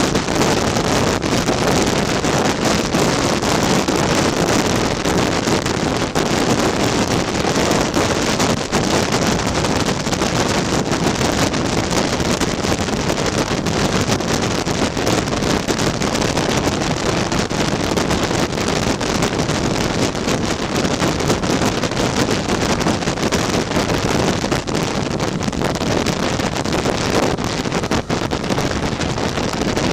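Steady wind rush on the microphone over a tuned Lambretta scooter's two-stroke single-cylinder engine running at riding speed.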